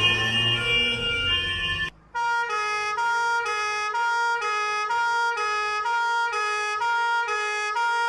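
Emergency-vehicle two-tone sirens. First comes a hi-lo siren over a vehicle's low rumble; it cuts off about two seconds in. After a brief gap, a clean horn-like two-tone siren alternates between two pitches a little more than twice a second.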